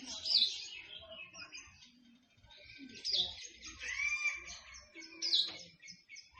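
Songbirds chirping and singing: a busy run of short high notes, with a loud down-slurred call about every two seconds and one rising-then-falling note near the middle.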